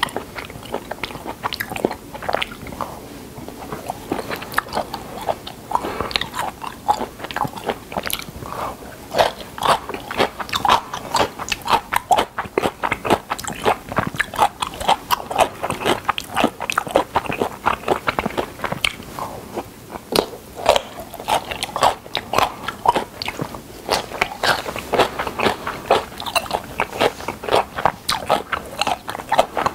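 A person chewing and biting a mouthful of spicy whelk salad with somen noodles, with crisp crunches and many small wet clicks a second throughout.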